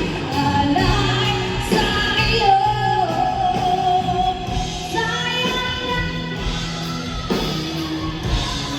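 Music: a singer holding long, drawn-out notes over instrumental accompaniment.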